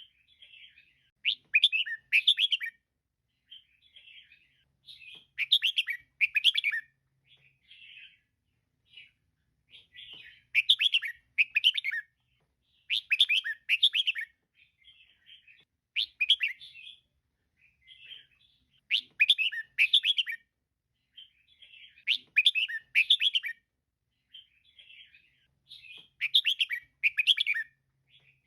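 Female red-whiskered bulbul calling: loud bursts of quick chirping notes come roughly every three seconds, with softer chatter in between.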